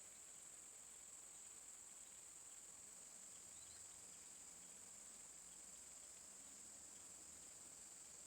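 Faint, steady, high-pitched insect chorus, like crickets, drones without a break over near silence.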